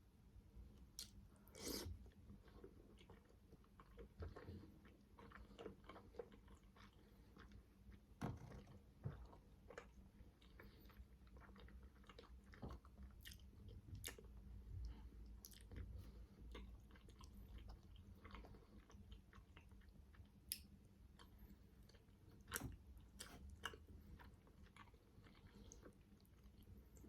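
Faint, close-miked chewing and biting of manty (steamed meat dumplings), with irregular wet mouth clicks, a few standing out louder.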